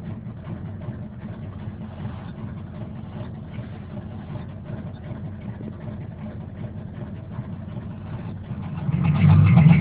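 Rebuilt 454 big-block V8 of a 1978½ Chevy truck idling steadily soon after a cold start at 15 °F. Near the end, louder music from the truck's radio comes in over the idle.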